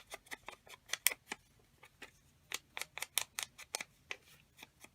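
Scissors cutting paper: quick sharp snips in two spells, with a pause of about a second partway through.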